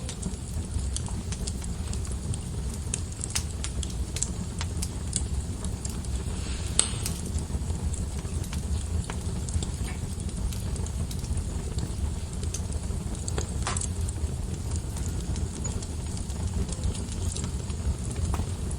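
Wood fire burning in a fireplace: a steady low rumble of flames with scattered crackles and small pops, two of them louder, about a third and two-thirds of the way through.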